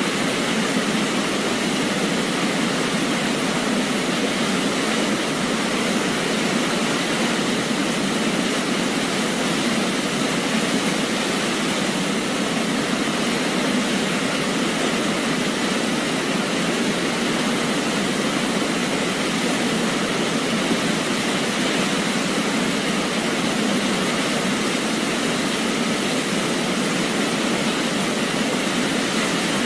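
A waterfall's steady rushing, an even unbroken noise with no rise or fall.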